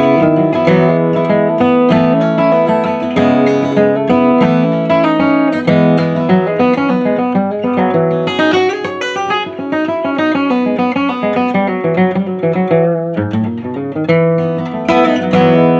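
Acoustic guitar playing an instrumental break without singing: a run of quick picked notes over chords.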